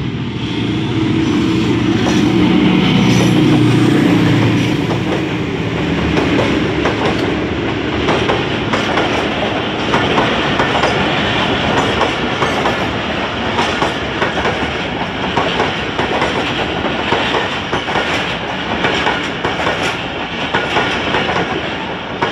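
Pakistan Railways passenger train running on the track, its wheels clattering over the rail joints in a dense, continuous run of clicks.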